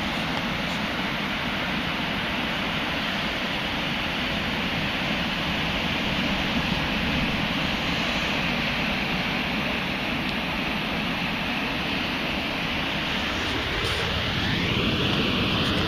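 Ocean waves washing onto a beach, a steady rush of surf. Near the end a single tone rises steadily in pitch over the surf.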